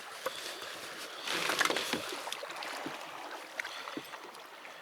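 Scattered light clicks and knocks with a brief scuffing rush about a second and a half in: handling noise in a kayak while a treble-hooked trout is being unhooked.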